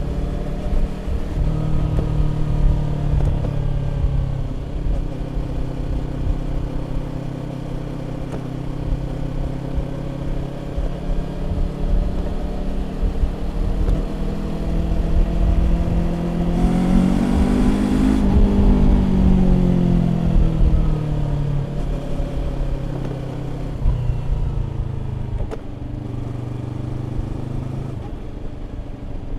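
Exhaust note of a Yamaha YZF-R25's 250 cc parallel-twin engine through a Prunus aftermarket exhaust, heard while riding. The pitch holds steady, climbs through the middle to a peak, then falls away as the bike slows, with a few step changes along the way.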